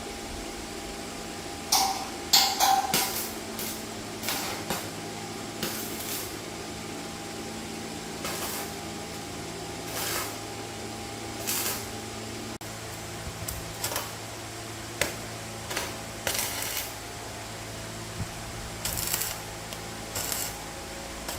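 Workshop sounds: a steady machine hum with irregular short, sharp noises from tool work, loudest about two to three seconds in.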